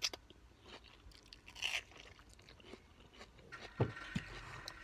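A person chewing and crunching mouthfuls of watermelon close to the microphone, with a few separate crunches. A short knock comes about four seconds in.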